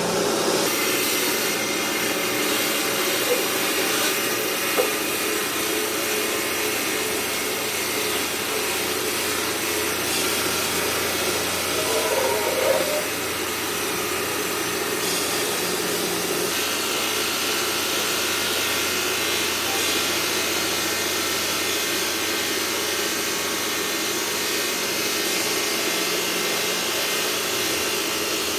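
Marble-processing machinery running with a steady, even noise, with a few faint clicks early and a brief louder patch about twelve seconds in.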